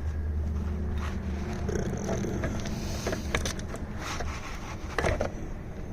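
Steady low hum with scattered light clicks and scrapes, several of them about 3 to 5 seconds in, from handling tools and an inspection scope at an engine bay.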